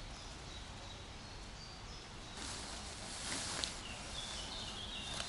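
Small birds chirping over a steady background hiss, ending in a short series of notes that step down in pitch. About two seconds in, a louder rustling starts, with a single click partway through.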